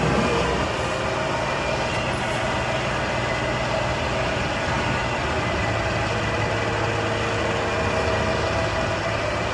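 Heavy diesel farm machinery engines running steadily under load, a dense mechanical drone with a low engine hum.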